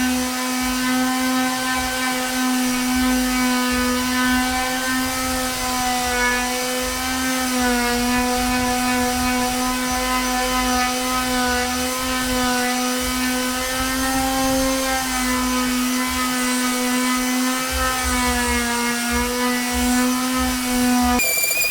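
Electric wood sander running steadily with a motor hum, its pitch sagging slightly at times. Right at the end the sound switches abruptly to a high whistle-like tone.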